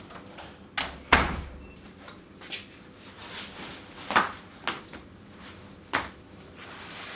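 A series of separate sharp knocks and bangs, about six in all at uneven spacing, the loudest about a second in, over a quiet background.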